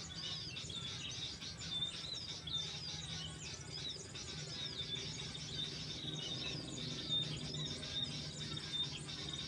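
Many small birds chirping and calling at once, a dense run of short high chirps and quick pitch sweeps, with a steady low hum underneath.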